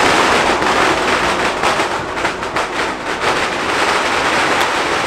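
Fireworks crackling, a dense run of small sharp pops that is thickest in the middle.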